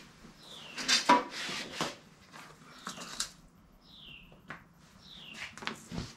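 A bird repeating a short downslurred whistle about once a second, with a loud clatter about a second in.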